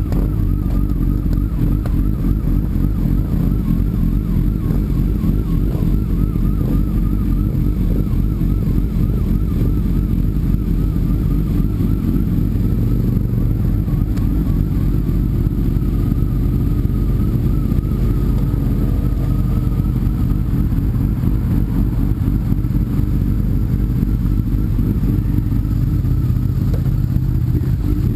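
Sport motorcycle engine running steadily while riding, heard from on board, with only small changes in pitch.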